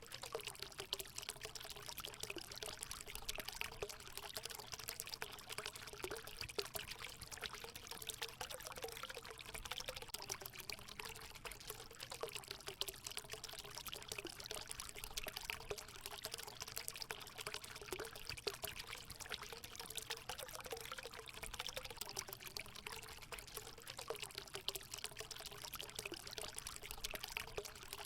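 Water running steadily into a hot spring pool, an even pouring trickle with a low wavering gurgle.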